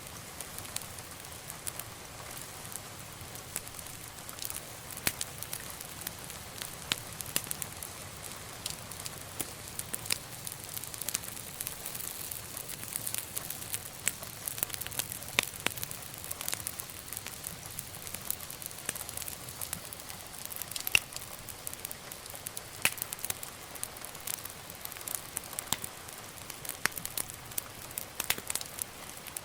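Wood fire burning in a fireplace, crackling and popping with irregular sharp snaps over a steady soft hiss.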